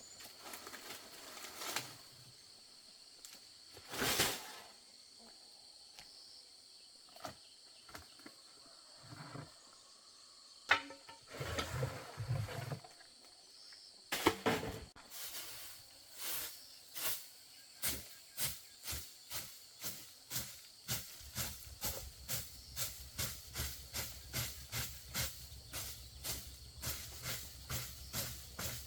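Steady high insect drone with scattered knocks and rustles. From about halfway in, a regular run of short rasping strokes sets in, about two a second.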